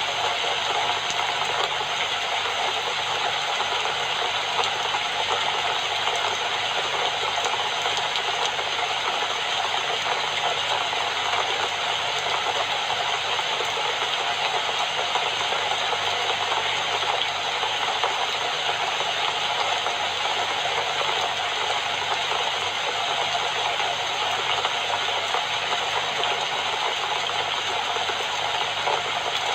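Steady rain falling, an even hiss with a fine pattering texture.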